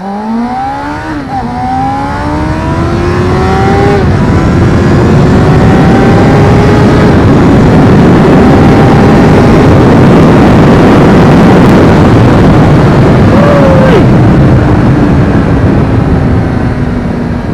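A 1995 Suzuki GSX-R400R's inline-four engine accelerating hard from a standstill, its pitch climbing and dropping at two upshifts within the first four seconds, then pulling slowly higher in top gears under a heavy rush of wind on the helmet microphone. About fourteen seconds in the revs flick up and fall away as the throttle is closed, and the engine and wind die down as the bike slows.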